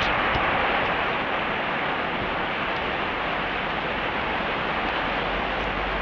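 Heavy rain falling in a steady downpour, a little louder in the first second.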